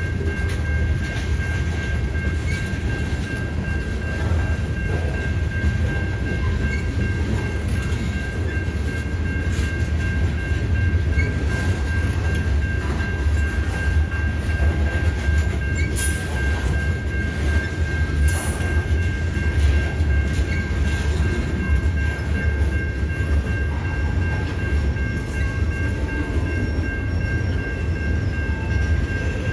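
Freight train of covered hopper cars rolling past: a steady low rumble of wheels on rail, with a steady high tone running through it and two sharp clanks a little past halfway.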